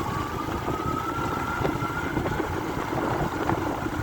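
Motorcycle under way, its engine whine rising slowly in pitch as it picks up speed, over steady wind and road rumble.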